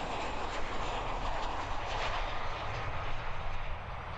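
Boeing 737-800 jet engines, CFM56 turbofans, running as the airliner lands: a steady rushing noise that eases off near the end.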